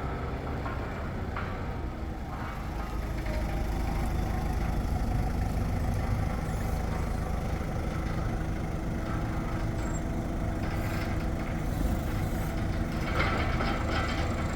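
Engine of a tracked mini loader running steadily, growing louder about three seconds in.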